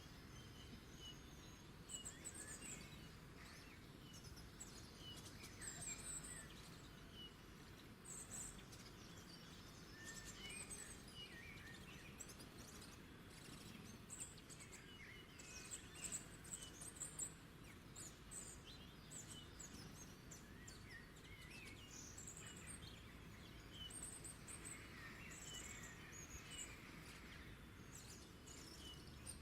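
Several wild birds calling in short, high chirps and trills, scattered throughout and faint, over a low background hum of outdoor ambience.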